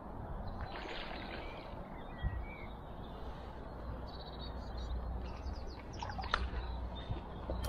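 Faint birdsong with a few short chirps over a steady low outdoor rumble, with a few sharp clicks about six seconds in.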